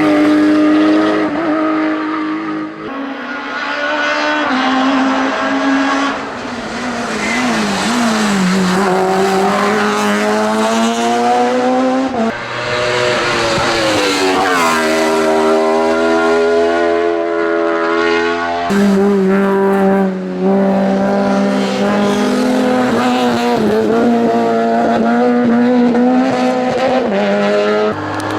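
Race car engines at full throttle, the note climbing and dropping as the cars accelerate and change gear. The sound changes abruptly three times.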